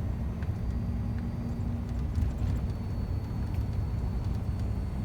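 Scania truck driving at a steady pace: a continuous low engine and road rumble, with a steady hum over it for the first couple of seconds and a few faint rattles.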